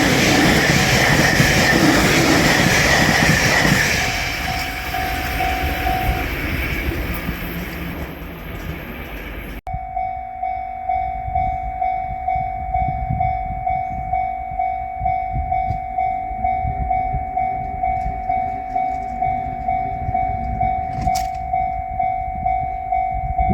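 A JR Shikoku 8000-series electric train runs past over a level crossing, loud at first and dying away, with the crossing's electronic warning bell ringing beneath. The train noise cuts off abruptly about ten seconds in, leaving the crossing bell ringing on its own in a steady 'kan-kan' rhythm of about one and a half strikes a second.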